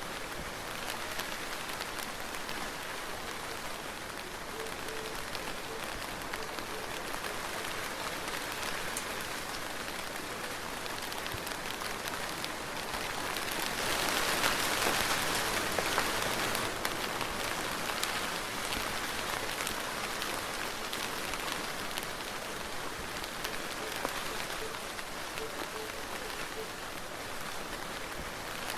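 Steady soft rain falling on a surface, a dense patter of fine drops that swells a little heavier about halfway through.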